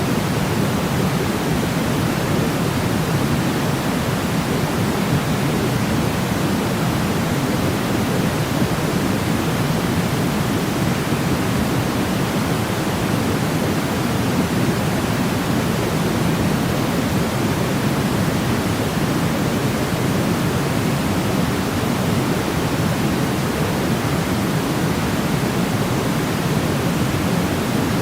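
Steady electronic sleep noise, a deep, even hiss weighted toward the low end rather than bright white noise. It does not change at all.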